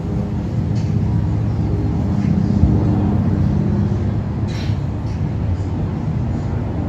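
Wind blowing on the microphone: a steady low rumble, with a brief gust of hiss about four and a half seconds in.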